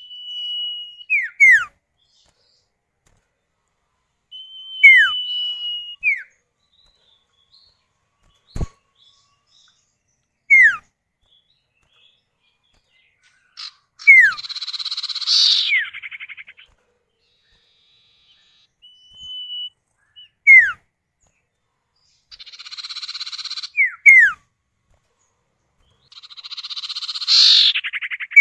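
Common iora (cipoh) calls, male and female answering each other. There are long level whistles about a second long, each ending in quick down-slurred notes, and these alternate with harsh rasping chatters around the middle and near the end. A single sharp click sounds about a third of the way in.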